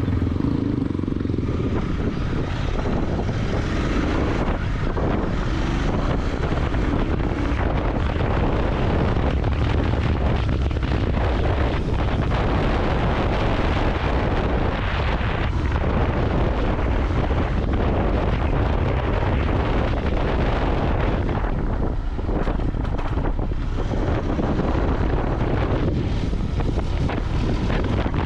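Royal Enfield Continental GT 650's 648 cc parallel-twin engine and exhaust running under way, mixed with wind rushing over the microphone.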